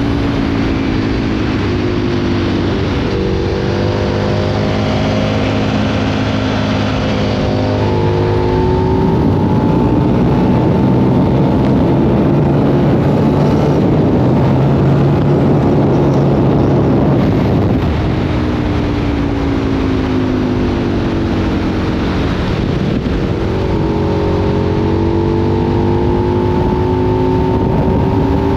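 2003 Aprilia Tuono 1000's V-twin through a Remus exhaust, ridden under throttle: the engine pitch climbs in steps through gear changes, then falls and climbs again. In the middle, a long stretch of loud rushing noise with the engine note held steady.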